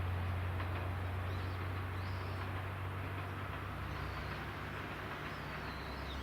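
Diesel railcar's engine hum slowly fading as the train draws away, with faint bird chirps.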